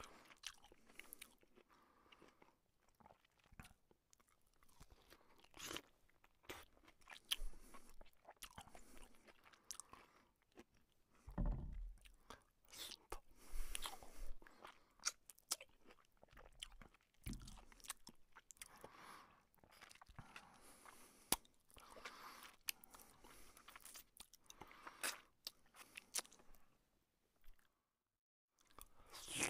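Close-up eating sounds: a person chewing mouthfuls of luchi (soft puffed fried bread) with chicken curry, with many short irregular mouth clicks and smacks and a low bump about eleven seconds in.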